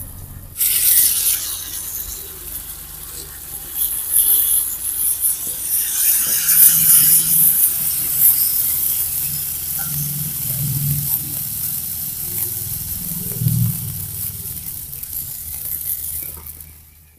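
Chicken and potato curry sizzling in an iron wok over a wood fire: a loud, steady hiss that starts suddenly about half a second in and dies away near the end as the lid goes on.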